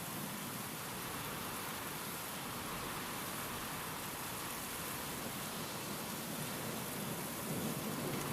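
Steady rain falling in an even hiss, with a low rumble of thunder starting to build near the end.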